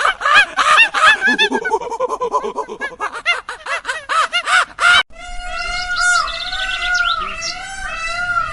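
A crowd of chicks peeping, many short, rapid, overlapping calls, for about five seconds. Then a sudden cut to a smoother, wavering melodic sound.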